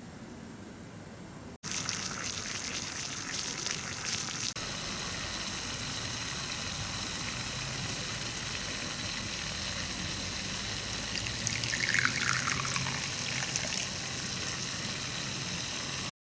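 Steady sound of water, with a brief falling swish about twelve seconds in.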